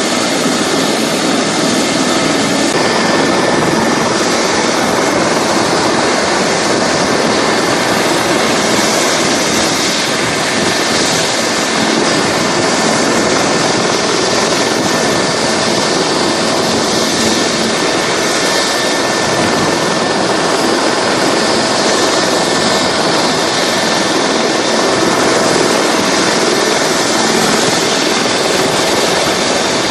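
Medical helicopter's turbine engines running steadily: a loud, even rush of noise with a faint steady whine through it.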